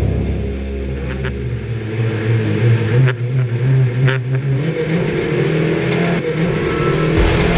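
Stock car engines running on the starting grid, with a few sharp knocks about one, three and four seconds in.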